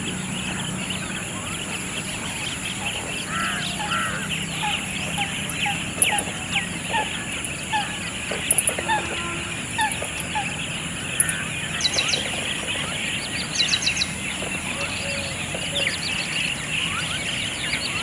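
Chorus of many wild birds calling at a lake, with many short chirps and calls overlapping, over a steady high-pitched drone in the background.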